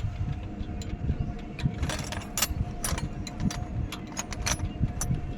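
Scattered sharp metal clicks and clinks of work on an engine, over a steady machine hum and low rumble.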